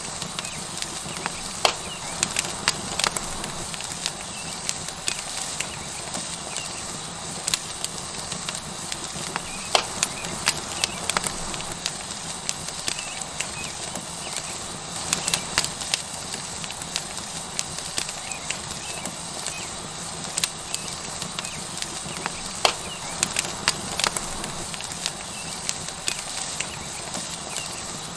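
Tomahawk steak searing on a hot rock over a wood fire: a steady sizzle with frequent sharp pops and crackles from the burning wood, coming at irregular intervals.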